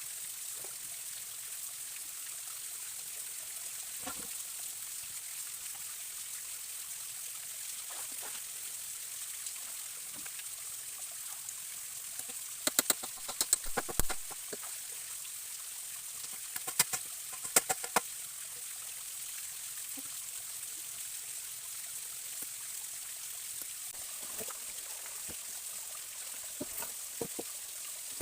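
Stream running steadily. Two quick runs of sharp clicks or knocks come about halfway through, louder than the water.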